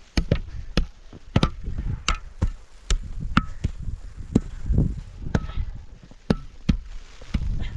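About a dozen sharp chopping blows in an uneven rhythm, roughly one to two a second, some with a brief ringing tone after the strike.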